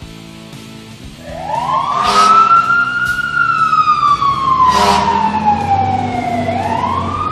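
Siren sound effect: about a second in, a wail rises, then falls slowly and starts rising again near the end. Two short hisses sound in between, over quiet background music.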